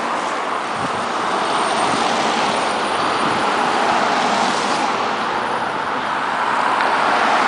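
Road traffic passing close by on a wet, snow-covered highway: a steady hiss of car tyres on the wet road, with no break.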